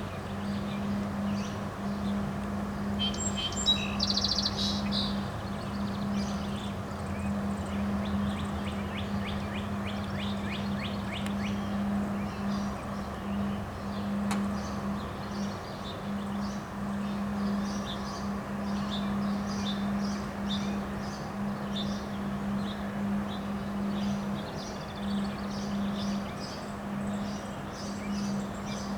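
Wind blowing steadily with a constant low hum under it, while birds chirp over the top. Short chirps come again and again, with a louder call about three to five seconds in and a quick trill a little later.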